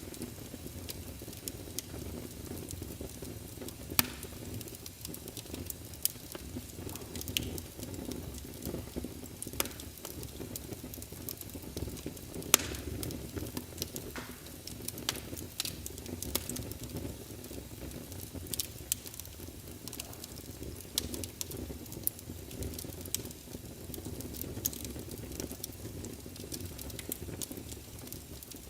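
Wood fire crackling in a fireplace: a steady low rumble under sharp snaps and pops at irregular intervals, a few of them louder than the rest.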